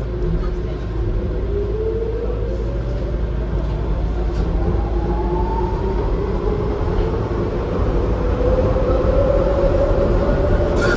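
Docklands Light Railway B92-stock train running. A whine rises in pitch as it picks up speed, then a second whine climbs again from about two-thirds of the way through, over a steady low rumble of wheels on track.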